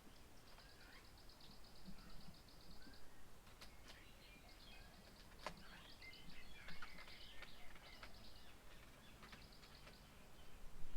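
Small birds chirping faintly, with fast runs of short, evenly repeated high notes.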